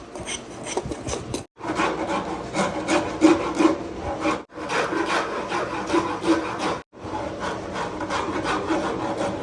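Hand abrading of a cricket bat's wood in quick back-and-forth scraping strokes, with a faint squeak in each stroke. The sound cuts out abruptly three times.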